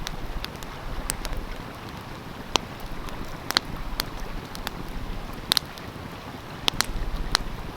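Wood fire crackling, with sharp pops every second or so, over the steady rush of a flowing stream.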